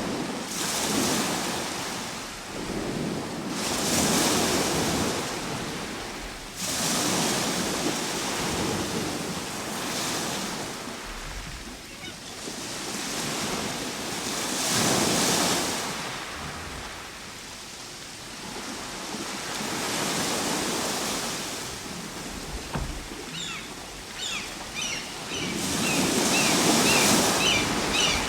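Ocean surf breaking and washing ashore in slow surges that swell and fade every three to five seconds. Near the end, short high chirps come through the wash.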